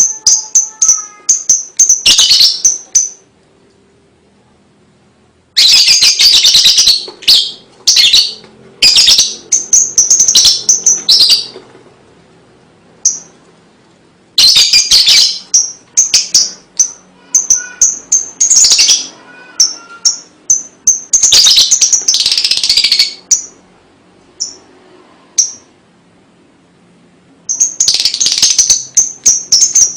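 Lovebird chattering in long, rapid, clicking trills (the 'ngekek' call), in bouts of several seconds broken by short pauses, the longest pause about two seconds in.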